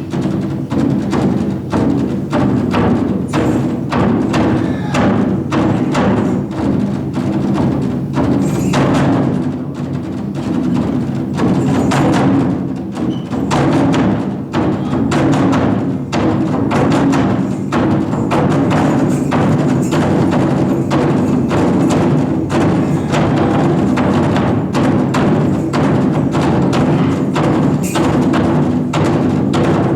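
Japanese taiko drums played in a fast, continuous pattern of strikes with wooden sticks, with a steady low tone sustained beneath the drumming.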